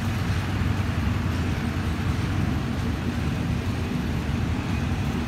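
Passenger coaches of a departing train rolling slowly past on the track, a steady low rumble.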